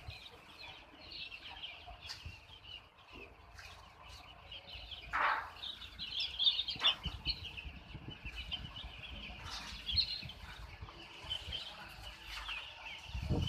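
A flock of chickens: a dense, continuous chatter of short high peeps and clucks, with one louder call about five seconds in and a low thump near the end.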